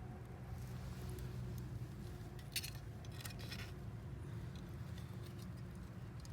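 Small wood campfire crackling faintly, with a quick run of sharp pops and crackles about two and a half to three and a half seconds in, over a steady low rumble.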